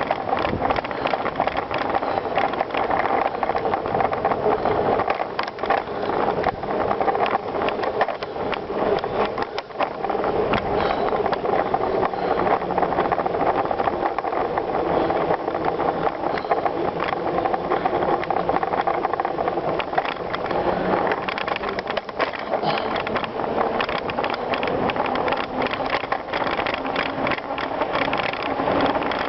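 Bicycle being ridden over a rough surface: continuous tyre noise with dense rattling and clicking from the bike.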